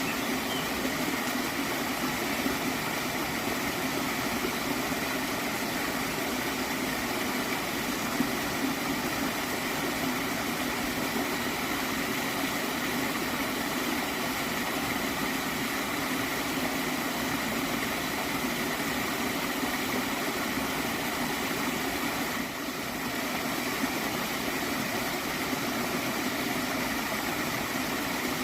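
Water flowing steadily in a stream, a continuous gurgling rush.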